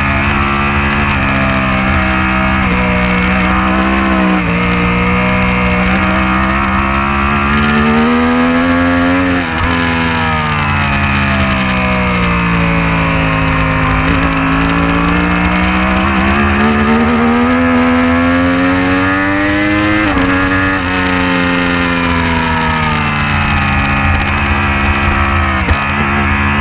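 Racing motorcycle engine running hard. Its pitch climbs and then drops suddenly at gear changes, about 4, 9, 20 and 26 seconds in, with slow falls in pitch in between as the bike slows for corners.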